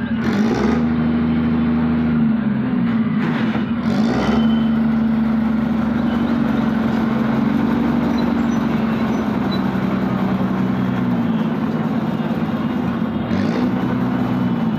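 Truck engine running steadily, its pitch dipping and climbing back a few times.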